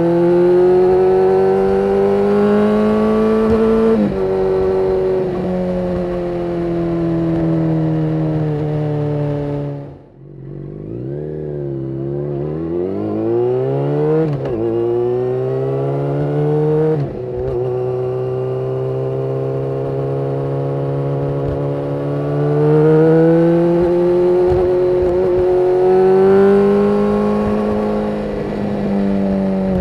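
Yamaha FZ6N's inline-four engine through its Two Brothers exhaust, accelerating through the gears: the pitch climbs steadily, then drops at each gear change. About ten seconds in the throttle closes briefly and the engine sound dips, then it picks up and pulls again.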